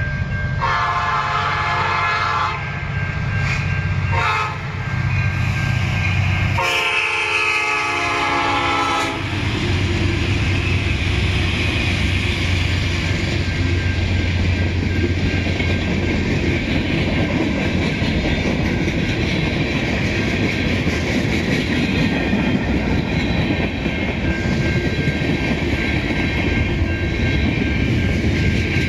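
Diesel freight locomotive horn sounding three blasts, long, short and long, on the approach to a grade crossing. The CN locomotives and freight cars then roll past with a steady low rumble and the clatter of wheels over rail joints.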